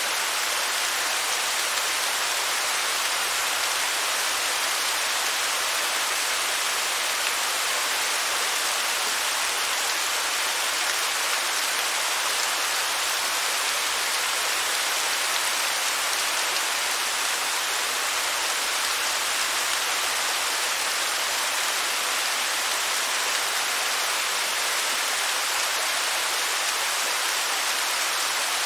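Waterfall: falling water rushing and splashing in a steady, unbroken hiss, mostly high with little low rumble.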